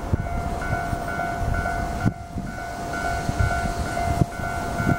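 731 series electric train running towards the platform as it pulls in to stop, with a low rumble and occasional clunks. Through it sounds a steady electronic warning tone that pulses about twice a second.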